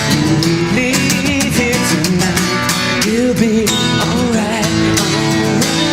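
Acoustic guitars strumming with a sung melody over them, as a band performs a pop-rock song.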